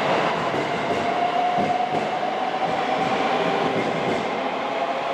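Electric train pulling out of the station and running away along the track: a steady rumble of wheels on rail with a few clicks from rail joints, and a motor whine held near one pitch from about a second in.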